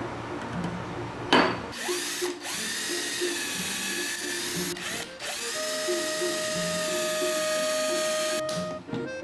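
Electric power tool motor whining steadily in a long run, with a brief dip about halfway, after a sharp burst near the start. Background music plays underneath.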